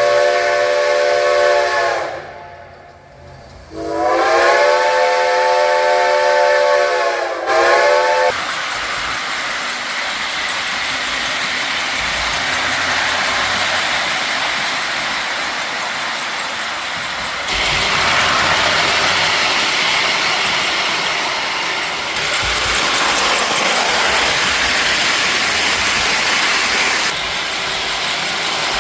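Steam locomotive whistle from a Lionel O gauge Reading T1 Northern model's sound system. It blows two long chord-like blasts and a short toot, then gives way to a steady hiss of steam and running noise.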